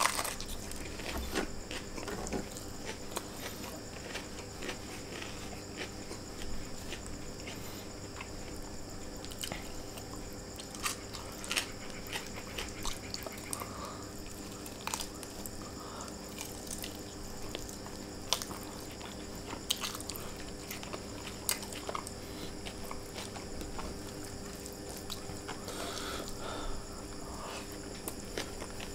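Close-miked chewing and biting of a man eating chicken and rice by hand, with many short, wet clicks scattered throughout.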